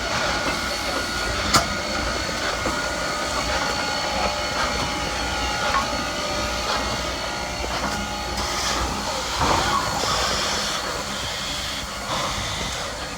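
Steam-hauled excursion train running on the track: a steady hiss and rail noise, with a sharp click about a second and a half in.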